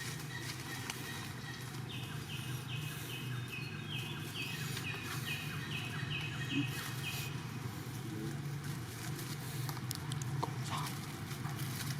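A bird calling a run of about a dozen short, evenly spaced high notes, starting about two seconds in and stopping a few seconds later, over a steady low hum.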